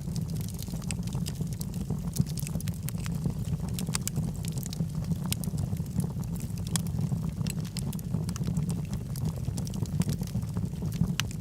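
Wood logs burning in a fireplace: frequent, irregular sharp crackles and pops over a steady low rumble of the flames.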